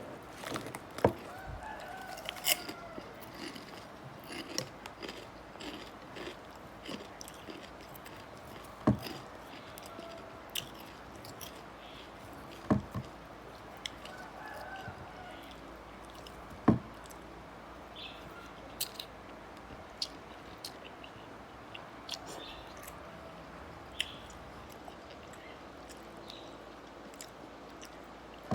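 Someone eating noodle soup, chewing and crunching on crispy pork, with sharp clinks of utensils against the bowl now and then. Chickens clucking in the background.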